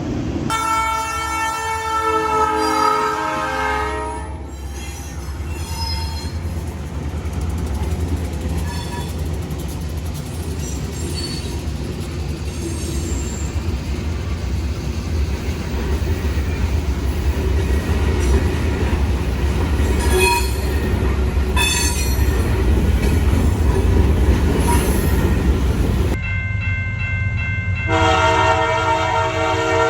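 A train horn sounds a chord of several tones for about three seconds, then a passing train rumbles steadily with wheel noise and brief high squeals. Near the end the horn sounds again.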